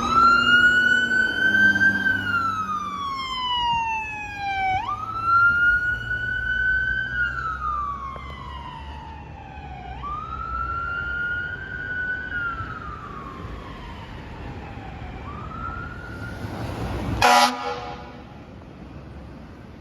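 Fire apparatus siren wailing, a pitched tone that rises quickly and then falls slowly about every five seconds, four times over, above the low rumble of a truck engine. Near the end there is a short, loud horn blast.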